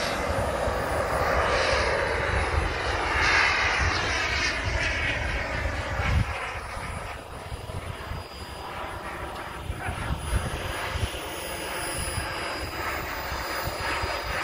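Radio-controlled model airplane flying just after takeoff, its engine note rising and falling in pitch as it passes, easing off a little in the second half.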